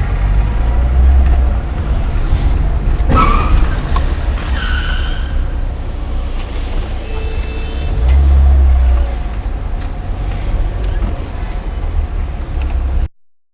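Dashcam recording of a car on the road, with a constant heavy rumble of engine and road noise. About three seconds in there is a single sharp bang, followed shortly by a brief high-pitched tone.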